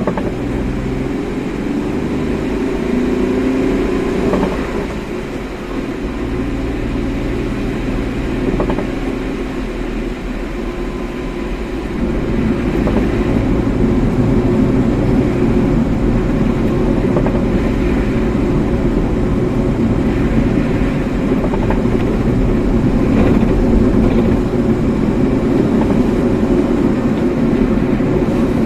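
A car driving, with steady engine and tyre road noise heard from inside the cabin. The noise gets louder about twelve seconds in and stays louder.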